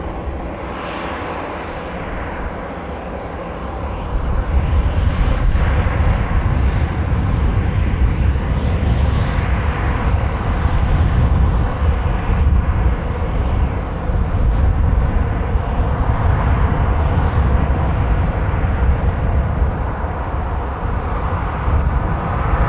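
Airliner engine noise across an airfield, with wind buffeting the microphone as a heavy low rumble from about four seconds in.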